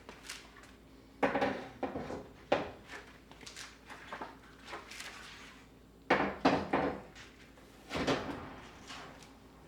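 Knocks and clatters of household objects being handled and set down, in clusters: about a second in, again around six seconds in, and once more near eight seconds.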